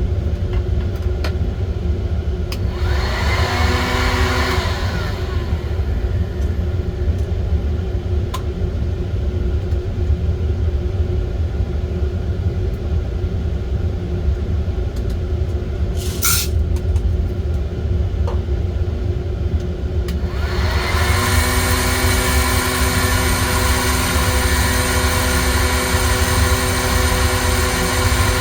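Steady low rumble, with an electric blower motor briefly whining up and hissing about three seconds in, then switching on again about 21 seconds in and running steadily with a whirring hiss: hot air being applied to the roasting beans.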